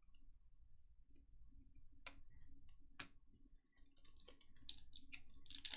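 Faint, scattered clicks and ticks of trading cards being handled, with a quicker run of ticks near the end.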